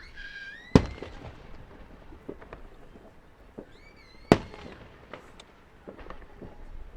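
Fireworks going off: two loud bangs about three and a half seconds apart, with scattered smaller pops and crackles between them.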